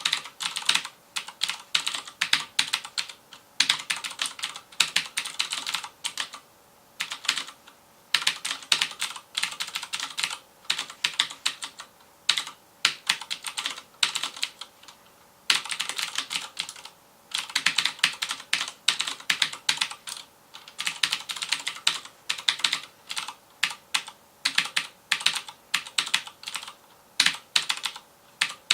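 FILCO Majestouch Convertible 2 mechanical keyboard with Cherry MX Blue switches being typed on fast, each keystroke a sharp click, in quick runs broken by short pauses.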